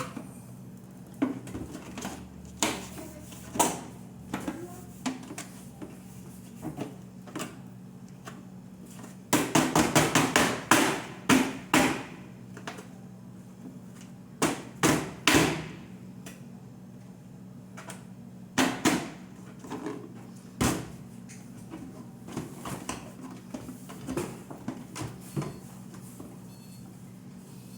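Intermittent knocks, clicks and clatter of household objects being handled and set down, with a burst of rapid clicking about ten seconds in and a few louder single knocks later, over a steady low hum.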